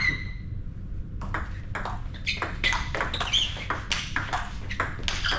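Table tennis rally: the celluloid ball clicks sharply off bats and table several times a second, starting about a second in.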